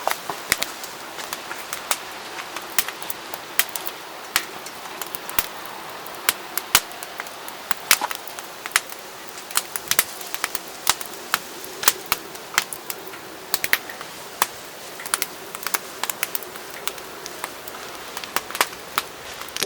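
Wood fire crackling in a fire pit: irregular sharp pops and snaps, several a second, over a steady hiss.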